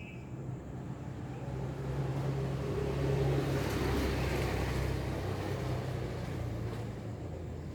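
A motor vehicle passing by: a low engine hum and rushing road noise grow louder to a peak about three to four seconds in, then fade away.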